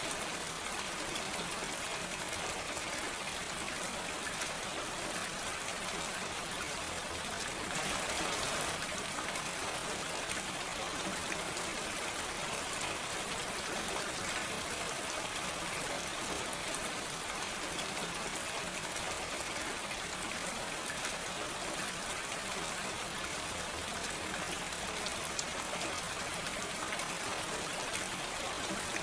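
Steady gentle rain without thunder: an even hiss of falling rain with fine patter of drops, swelling briefly about a third of the way in.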